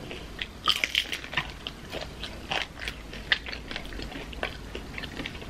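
Two people biting and chewing crispy fried taquitos: irregular crunches and wet chewing sounds.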